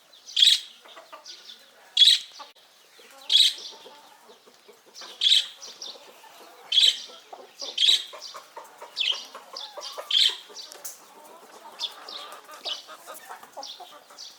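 Chickens clucking and moving about in a coop, over a series of short, sharp, scratchy sounds that come about every one to two seconds.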